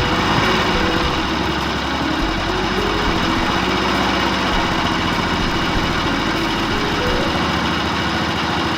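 A steady engine or motor sound running without a break, like a machine idling.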